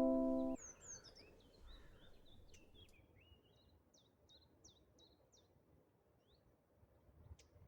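A ukulele's final strummed chord rings out and cuts off abruptly about half a second in, leaving faint birdsong: high chirps and whistles, then a quick run of about six short falling chirps a few seconds in.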